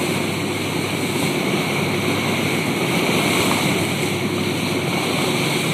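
Steady noise of a whale-watching boat at sea: the engine running under a rush of wind and water, with no distinct events.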